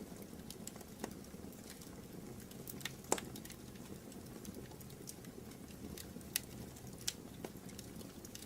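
Wood fire burning in a fireplace: a steady low rush with scattered sharp crackles and pops, the loudest about three seconds in.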